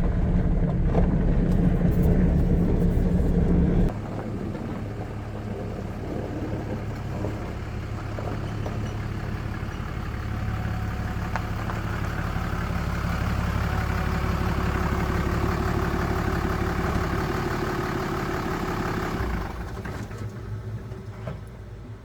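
Pickup truck's engine running as it drives along. The sound drops abruptly about four seconds in, carries on steadily, then fades away a couple of seconds before the end.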